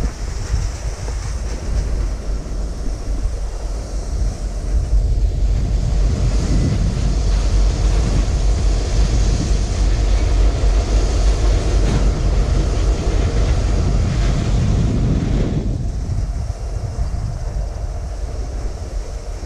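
Ballast train going by with a steady rumble, heavily buffeted by wind noise on the microphone. A hiss rises about a quarter of the way in and falls away about three quarters of the way through.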